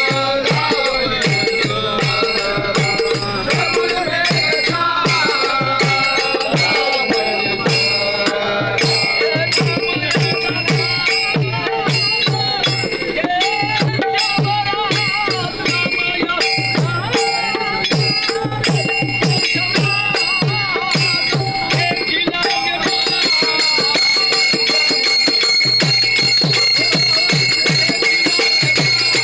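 Voices singing a Marathi abhang, a devotional song, over a fast, steady beat of hand percussion with a ringing metallic tone. The ringing grows stronger about two-thirds of the way through.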